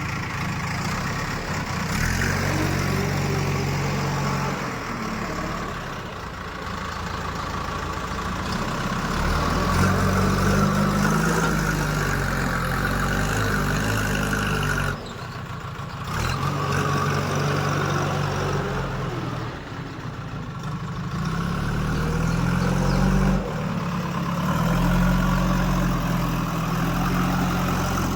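Heavy diesel machinery engine running, its speed rising and falling several times, with a sudden break about halfway through.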